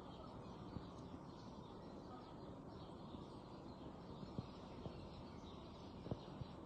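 Faint outdoor ambience: a steady low background hiss with faint bird chirps, and a few faint short pops or clicks.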